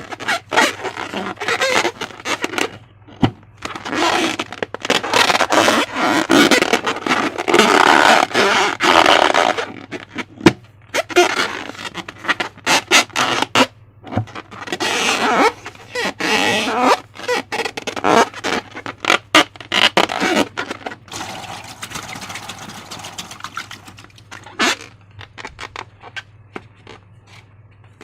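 Slime being squeezed and worked by hand: irregular wet squelching and crackling with scraping, in bursts that die away near the end.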